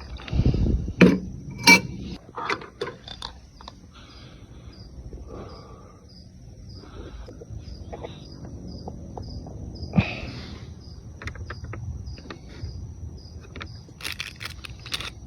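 Scattered knocks and clicks from handling camp cooking gear, loudest in the first two seconds and again about ten seconds in. Behind them a cricket chirps steadily, about three times a second.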